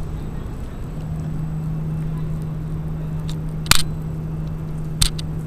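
A steady low hum, with two short sharp clicks, the first a little past halfway and the second near the end.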